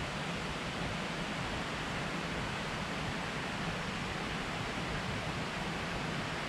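Steady rushing roar of a waterfall and its falling water, even and unbroken.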